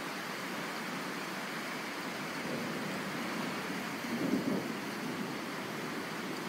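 Steady hiss of rain in a thunderstorm, with a brief low rumble about four seconds in.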